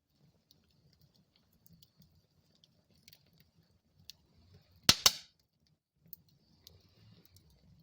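Wood fire in a fireplace crackling: a faint low rumble of the flames with scattered small crackles, and a loud double pop about five seconds in.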